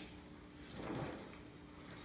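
Faint handling sounds while a snare drum is being cleaned: a sharp click at the start, then a short soft rub about a second in.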